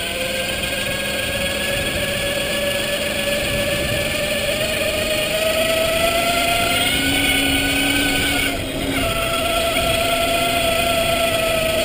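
Electric motor of a converted mountain bike whining under power while riding, over tyre and wind noise. The pitch drifts slowly with speed, and the whine drops out for a moment about nine seconds in before picking up again.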